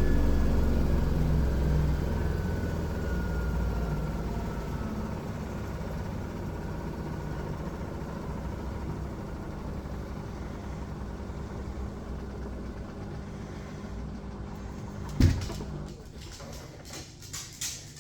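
Miele washing machine winding down from its spin, the drum's hum fading steadily and a whine falling in pitch as it slows. A single thump about fifteen seconds in, then a few light clicks near the end.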